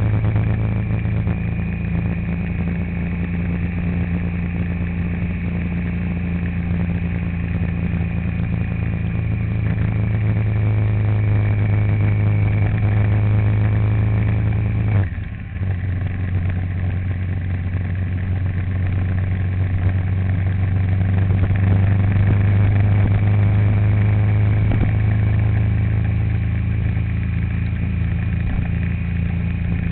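A vehicle running steadily on the road, with a constant low engine hum, and a brief drop in level about halfway through.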